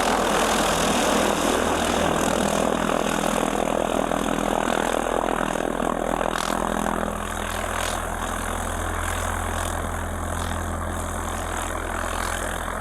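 Single-engine Piper Archer light plane's piston engine and propeller idling steadily just after start-up, heard from inside the cockpit. The sound eases slightly about halfway through.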